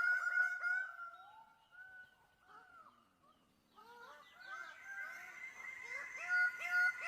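Bird of paradise calling: a rapid series of repeated, clipped pitched notes that fades out about a second in, leaves a few scattered calls, then builds back into the fast repeated series from about four seconds in.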